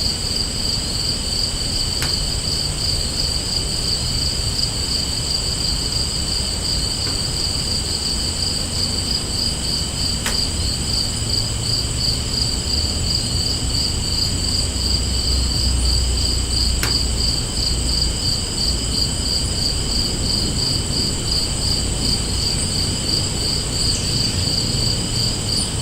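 Crickets chirping in a steady, fast, evenly pulsing trill over a low background rumble, with a few faint clicks.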